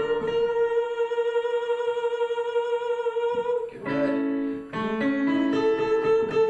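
A singer holding long, steady high notes in a vocal exercise, each note sustained for several seconds. There is a short break with a few lower, rising notes in the middle before the high note is held again.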